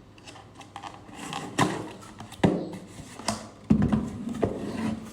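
Corrugated cardboard mailer box being handled, with about five sharp knocks and short scraping rustles of the cardboard.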